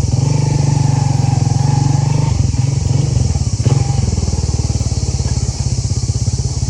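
Motorcycle engine running with a fast, even beat, easing off a little over two seconds in and picking up again about four seconds in.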